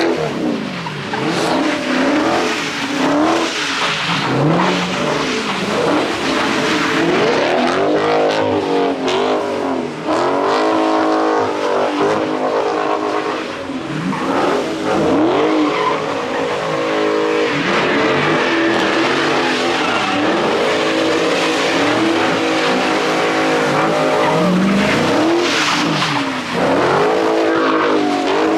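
Car engines revving hard again and again, pitch rising and falling many times, with tyres spinning and skidding on wet pavement as cars do donuts.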